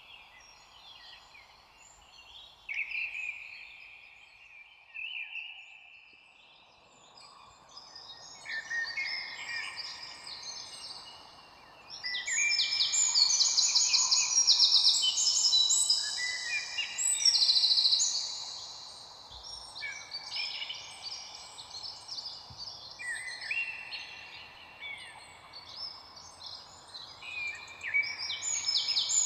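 Several wild birds chirping and singing at once, short overlapping calls and trills, sparse at first and busiest about halfway through. A steady faint hiss sits underneath from about a quarter of the way in.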